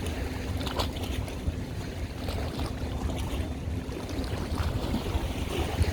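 Low, steady rumble of a boat's engine on the water, with a faint steady hum over it that stops about five seconds in.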